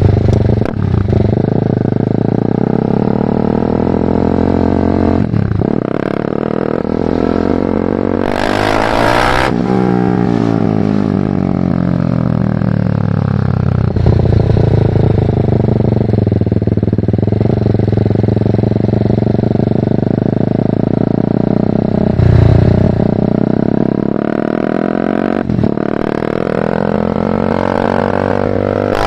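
BMW G310R's single-cylinder engine through a full Mivv aftermarket exhaust, under way and accelerating and slowing repeatedly, its pitch rising and falling with short breaks at gear changes. A loud hiss joins briefly about eight seconds in.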